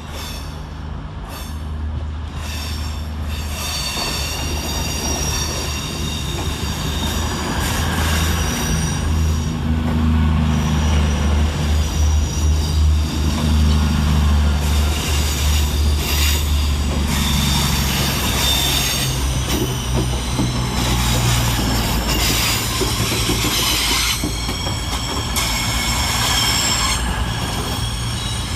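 Two coupled CrossCountry Voyager diesel multiple units, a Class 221 and a Class 220, pulling into the platform. Their diesel engines give a steady low drone, and the wheels squeal high-pitched on and off throughout.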